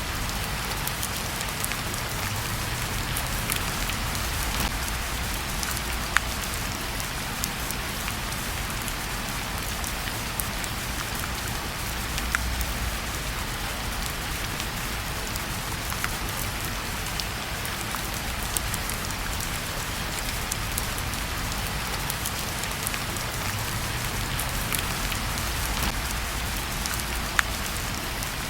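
Steady rain falling, an even hiss, with a few sharp pops now and then from a crackling wood fire in a fireplace.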